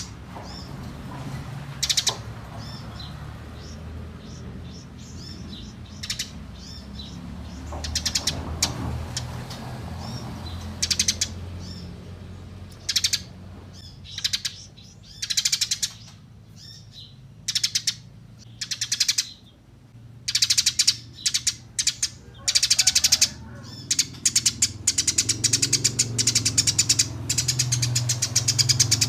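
Small songbirds singing in short bursts of rapid, high trills with pauses between. In the last few seconds the trills run together into an almost continuous chatter. A low hum runs underneath.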